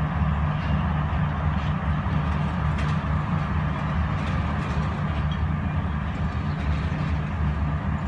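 Diesel-hauled passenger train pulling away, a steady low rumble with a few faint clicks.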